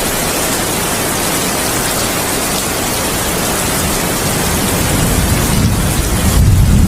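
Heavy rain falling steadily as an even hiss, with a deep thunder rumble building about five seconds in and swelling louder near the end.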